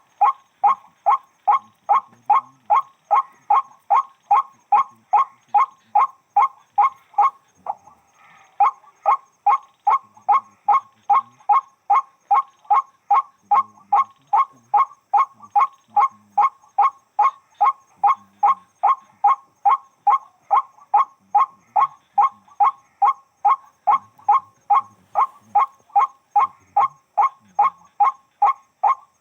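White-breasted waterhen (burung wak-wak) calling: a short, harsh "wak" note repeated very evenly, about two to three times a second, with one brief break about eight seconds in.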